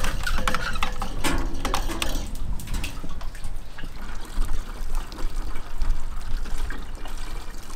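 Water splashing and trickling from a bucket being hauled up out of a water hole, with a few knocks in the first couple of seconds.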